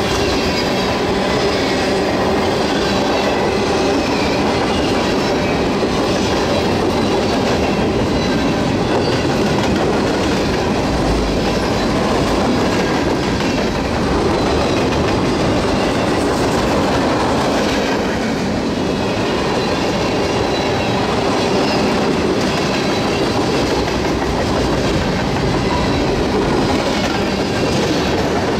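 Freight train cars rolling steadily past on the rails, wheels clacking over the track.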